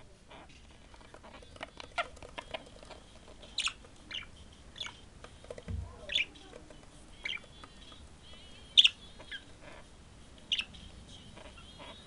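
A bird giving short, sharp chirps, about ten of them spaced unevenly, with a brief low thump about six seconds in.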